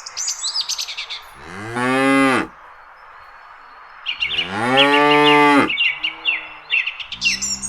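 Cow mooing twice, a shorter call and then a longer one, with a lower moo starting near the end; small birds chirp throughout.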